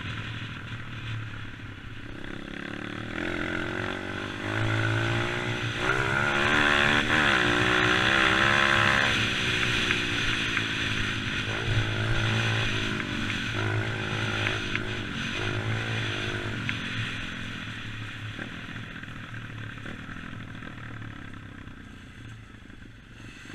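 Dirt bike engine revving up and easing off in several surges, loudest a few seconds in, then dying down toward the end.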